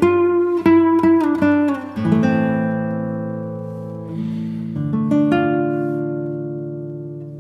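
Background music on acoustic guitar: a quick run of plucked notes, then chords left ringing and slowly fading, with another chord struck about five seconds in.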